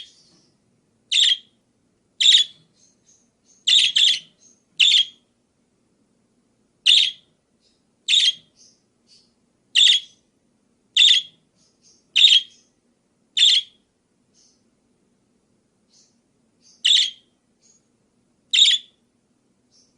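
A pet parakeet giving a series of short, sharp chirping calls, roughly one a second, a few in quick pairs, with a pause of a few seconds past the middle and faint soft chirps in between.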